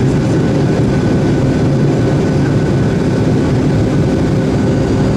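Boeing 757 jet engines running, a loud, even rumble with a few steady hums through it.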